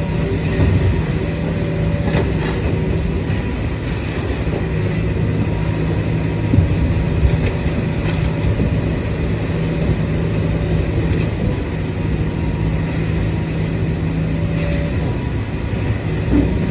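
Idromec T650 scrap metal shear baler running: a steady hydraulic machine drone with a constant low hum, broken by a few short knocks of scrap metal.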